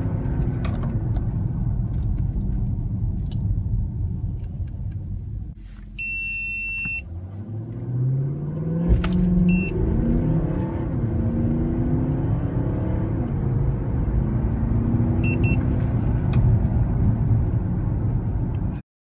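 Cabin sound of a VW Touareg's 4.2 V8 TDI diesel under full-throttle acceleration, its note climbing and dropping back as the automatic gearbox shifts up through the gears. Around six seconds in it eases off, with one longer electronic beep, and a few short beeps come later. The sound cuts off abruptly near the end.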